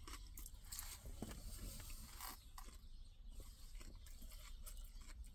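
Faint crunching and mouth sounds of a person chewing a mouthful of lettuce salad, as a scatter of small irregular crunches.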